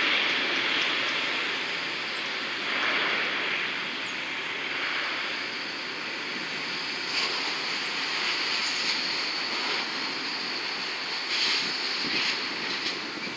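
Jet aircraft engine noise at an airport: a steady rushing roar, with a thin high whine that comes in about five seconds in.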